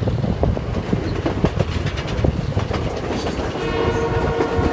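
Moving passenger train rumbling and clattering over rail joints, heard from one of its coaches. About three and a half seconds in, the locomotive's horn starts sounding one steady note that is still going at the end.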